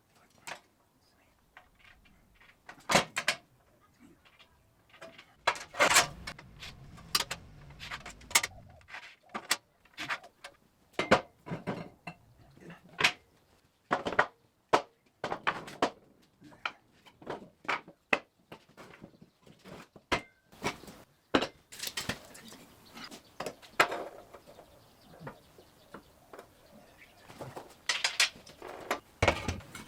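Irregular series of sharp knocks and clanks, steel parts and tools being picked up, moved and set down in a metalworking shop, with short quiet gaps between them.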